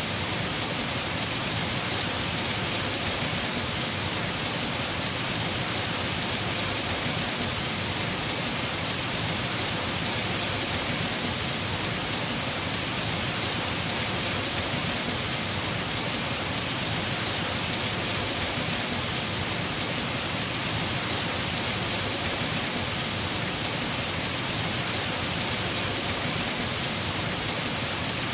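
Heavy rain falling steadily on a house roof, an even hiss with no change in level.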